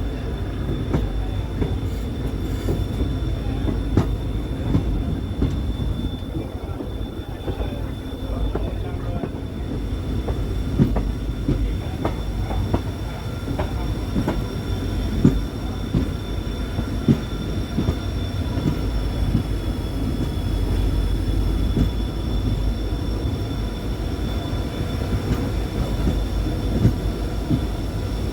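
Passenger train running along the track: a steady low rumble with irregular sharp clicks from the wheels, and a faint, steady high whine throughout.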